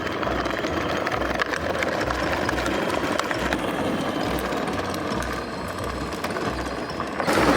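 A steady mechanical running sound, like a small motor or power tool, with a low pulse about twice a second.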